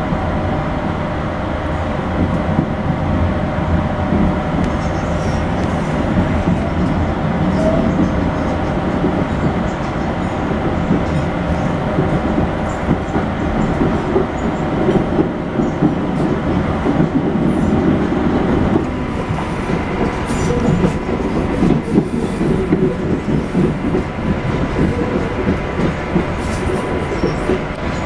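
Onboard running noise of a CAF articulated electric train under way: a steady rumble of the wheels on the rails with a constant whine of several tones. Light clicks and knocks come through in the second half.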